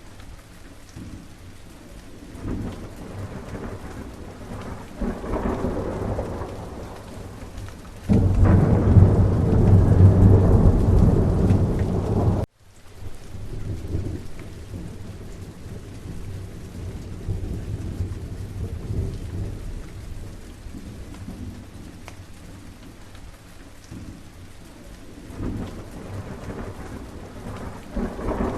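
Steady rain falling, with rolling thunder. A loud thunderclap starts suddenly about eight seconds in, rumbles for about four seconds and then cuts off abruptly. More thunder rumbles near the end.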